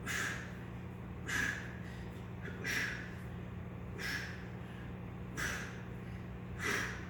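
A man's heavy, forceful breaths of exertion during a bodyweight exercise, one about every 1.3 seconds, six in all, over a steady low hum.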